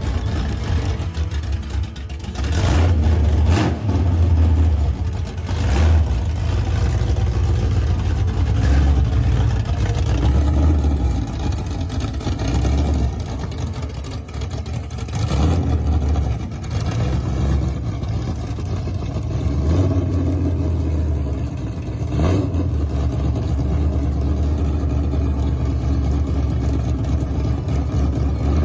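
Car engine running and being revved, its sound swelling and easing off several times.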